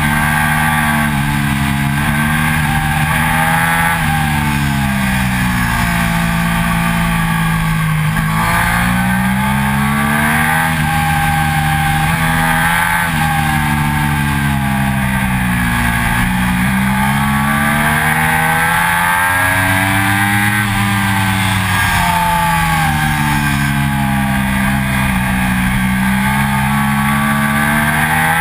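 2006 Triumph Daytona 675's three-cylinder engine at full track pace, its pitch climbing as it accelerates through the gears and dropping away on the shifts and braking, over and over.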